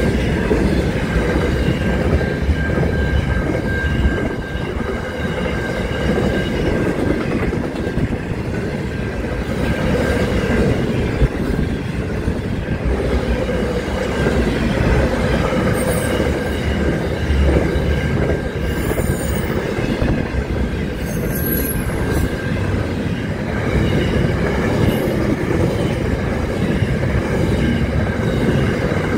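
A freight train of container wagons rolling steadily past at a level crossing, a continuous rumble of wheels on rail. Brief high-pitched wheel squeals come through around the middle.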